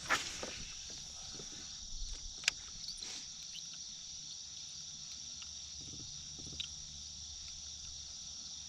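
Steady high-pitched drone of an insect chorus, with a few sharp clicks, the loudest just after the start and about two and a half seconds in.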